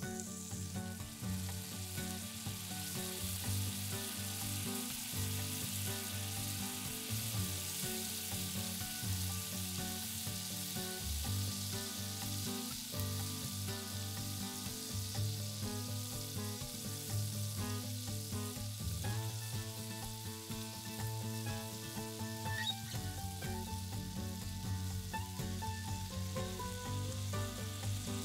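Lobster tails sizzling in butter in a hot skillet: a steady frying hiss. Soft background music plays underneath.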